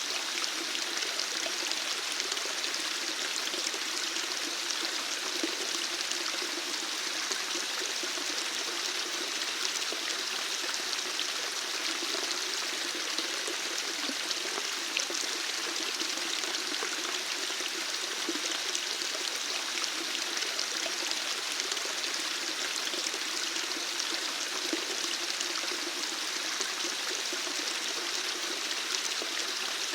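Water running steadily, a continuous splashing hiss like a small stream or trickling flow, with no change in level.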